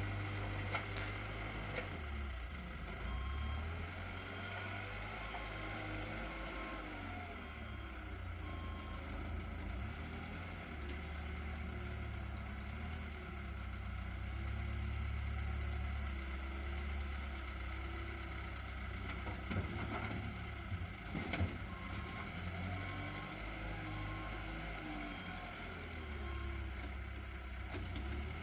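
Truck engine running steadily at low revs, with faint short beeps repeating at times.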